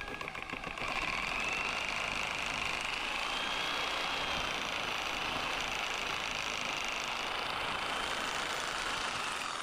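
Handheld power tool running steadily, starting about a second in, with a high, slightly wavering whine over a rough noise as it works the timber.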